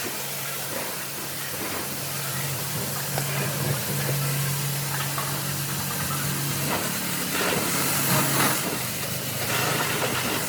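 A steady motor hum under a hissing spray, the hiss growing louder in stretches near the end.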